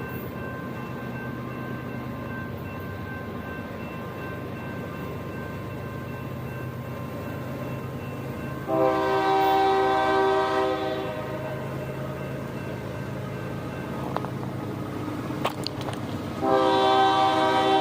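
Locomotive air horn sounding two long blasts, each a chord of several notes, the first about two seconds long near the middle and the second starting near the end. A steady low diesel rumble runs under both blasts.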